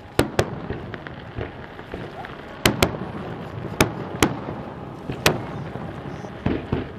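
Aerial firework shells bursting in a display, a string of sharp bangs that often come in quick pairs, about eight in all.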